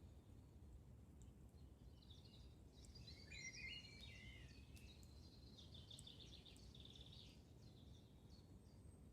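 Faint songbird singing quick warbling phrases that end in a trill, from about two seconds in to near the end, over a low steady rumble. A few faint ticks from the campfire's crackling wood.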